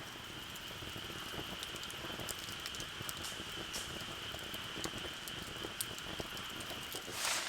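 Light rain pattering, with many small scattered drips and ticks over a steady noise. A thin high-pitched steady tone runs underneath and stops about seven seconds in, just as a brief louder rush of noise comes in.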